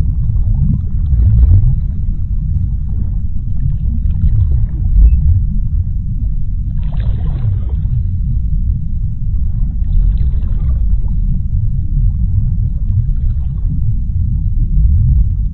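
Underwater sea ambience: a loud, steady deep rumble, with a few fainter hissing washes of higher sound, clearest about seven and ten seconds in.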